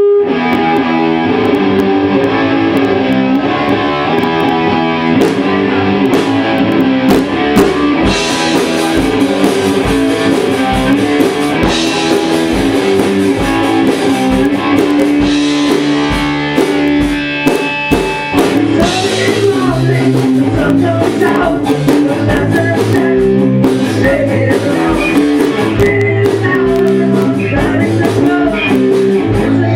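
Rock music: electric guitar playing over a drum kit with a steady beat.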